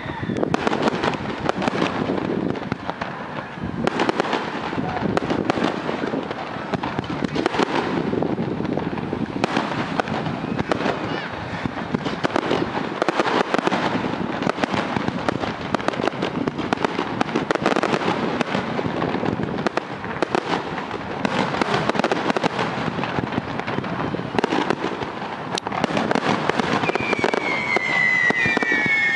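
Aerial fireworks display with a continuous barrage of shell bursts, bangs and crackling. Near the end, several high whistles glide downward.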